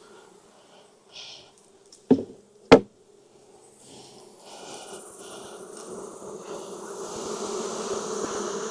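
Honeybees buzzing around an open hive, a steady hum that grows louder through the second half until it is really loud. Two sharp knocks come a little after two seconds in.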